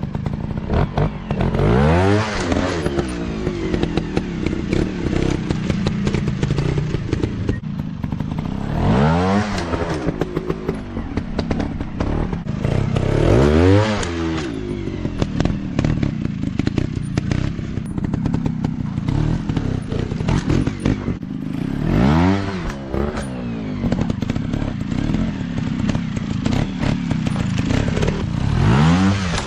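Off-road dirt bike engines running, revved up and let back down about five times, each rev a rising then falling pitch, over a steady engine rumble with clattering knocks.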